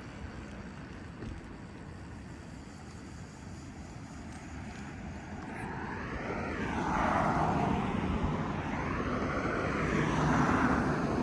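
Low rumble of riding noise, then an engine noise from a passing vehicle that swells about halfway through and stays loud to the end.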